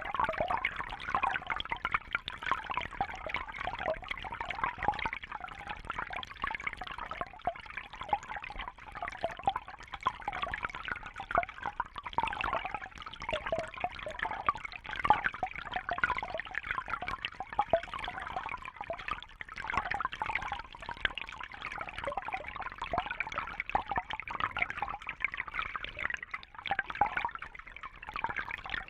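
Water trickling and bubbling steadily, a dense, irregular patter of small splashes.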